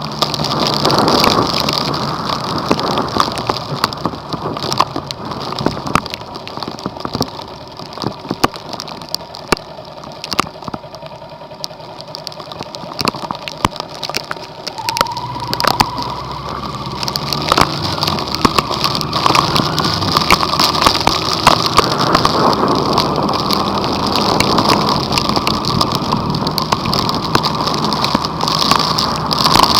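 Vehicle driving through a heavy rainstorm: dense rain and drops striking it in a constant patter over a steady engine hum, which swells in the second half.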